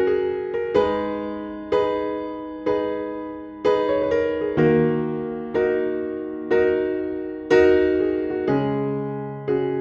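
Background music of slow electric piano chords, one struck about every second and left to fade.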